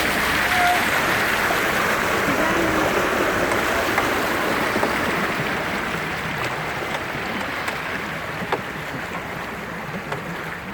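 Steady rushing and splashing of floodwater, slowly growing fainter, with a few faint clicks.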